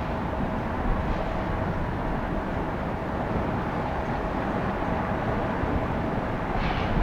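Arriving Boeing 717-200 airliner's rear-mounted Rolls-Royce BR715 turbofan engines: a steady jet rush with a faint whine held on one pitch.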